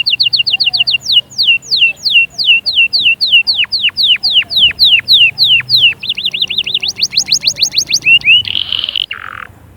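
Canary singing a song of repeated phrases: a fast trill, then falling whistled notes about three a second, then a fast higher trill. It ends with a harsh buzzy note.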